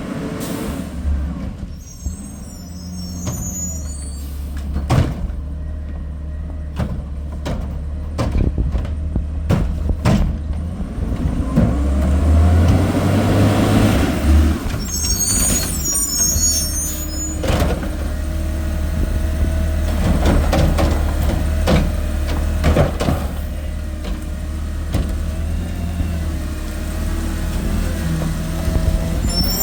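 Garbage truck's diesel engine running steadily, with a string of sharp knocks and bangs in the first ten seconds or so and a swell in engine speed around the middle. Short high squeals from the air brakes come three times: near the start, a little past the middle, and at the end.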